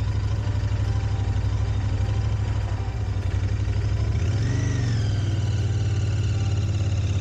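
Royal Enfield motorcycle engine running at low speed, a steady low rhythmic thumping pulse from the exhaust. A brief higher arching tone sounds about four and a half seconds in.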